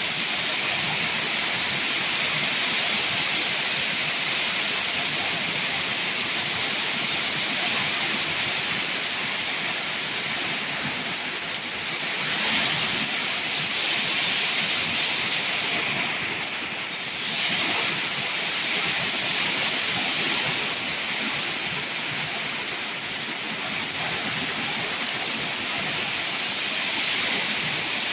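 Torrential thunderstorm rain pouring down in a dense, steady hiss, swelling briefly twice in the middle.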